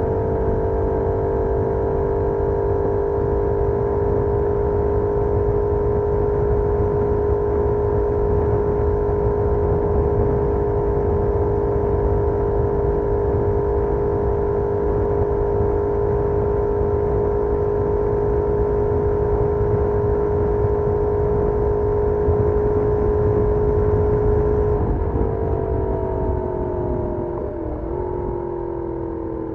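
Benelli Leoncino 800's 754 cc parallel-twin engine through its stock exhaust, heard onboard, holding a steady pitch at cruising revs. About 25 seconds in, the pitch falls gradually as the revs drop. A low rushing noise runs underneath throughout.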